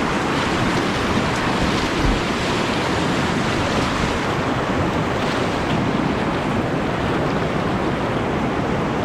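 Steady rush of whitewater moving through a river rapid.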